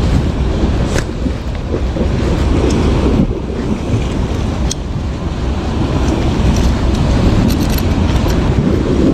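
Wind buffeting the microphone, a loud steady low rumble with a few faint clicks.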